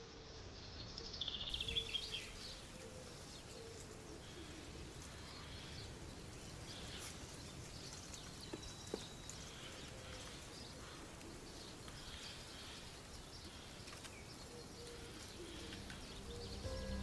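Natural woodland ambience with scattered faint bird chirps and calls, and a louder rapid chattering call about two seconds in.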